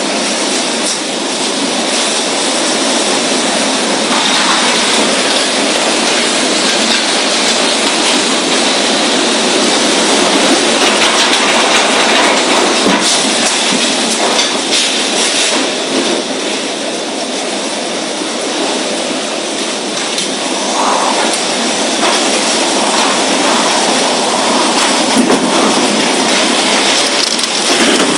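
Storm noise: a steady, dense rush of wind and heavy rain.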